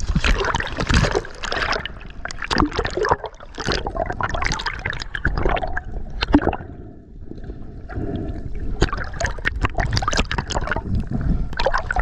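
Water splashing and gurgling around swimmers at the surface, in irregular bursts, with a short lull about seven seconds in.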